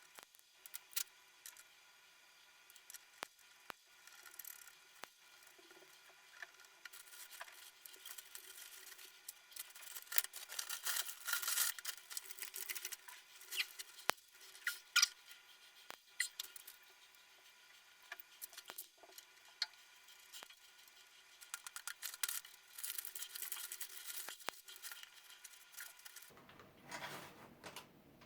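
Faint, irregular clicks, taps and stretches of rubbing and scraping, the sound of hands handling and working on a mountain bike's parts.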